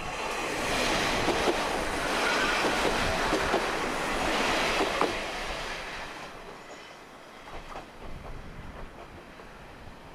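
Kominato Railway diesel railcar running past close by, wheels clattering over rail joints and points. It fades away after about six seconds.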